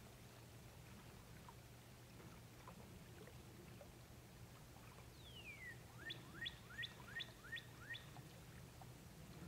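A bird singing: one downslurred whistle about five seconds in, then about six short rising notes in quick succession.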